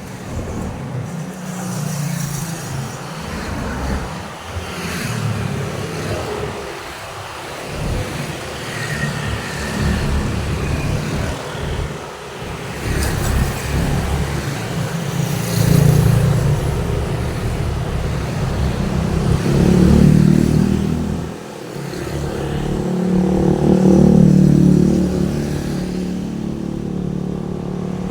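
Road traffic on a busy street: motor vehicles passing one after another, the sound swelling and fading with each. Several loud close passes come in the second half.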